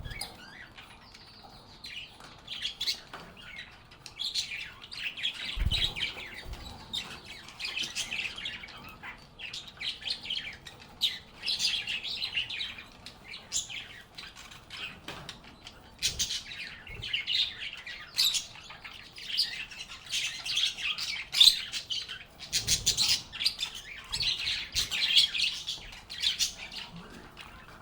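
A group of lovebirds chirping and chattering: rapid, high-pitched chirps in busy clusters, with two soft low thumps, one about six seconds in and one later on.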